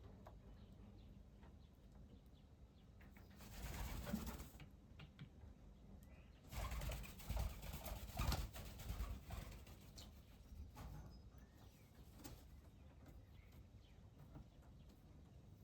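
Doves at a bird bath: a short burst of wing flapping about four seconds in, and a longer, louder flurry from about six to nine seconds, over a quiet background.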